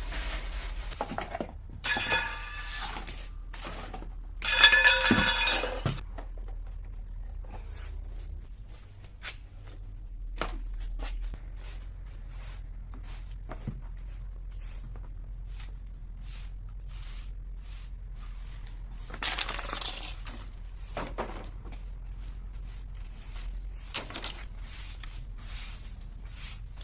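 Cleaning sounds: objects being handled, knocking and clinking, with three louder rushing bursts, the loudest about five seconds in.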